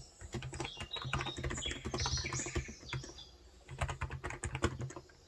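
Fast typing on a Cox Endeavour electro-capacitive (Topre-style) tenkeyless keyboard with 35 g switches: rapid runs of keystrokes, a short pause about three seconds in, another burst, then a lull near the end.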